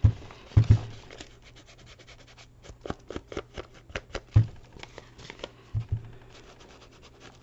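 Hands rubbing and pressing glued paper down onto a work surface: light scratchy rubs with a few dull knocks.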